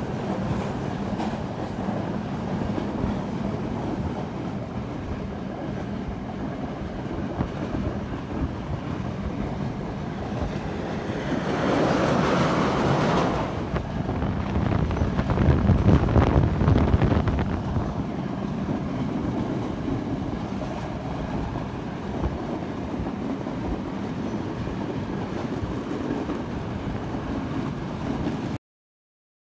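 Passenger train running, heard from on board: a steady rumble of wheels on the track, with a louder rushing stretch about twelve seconds in and a heavier rumble a few seconds after. The sound cuts off suddenly near the end.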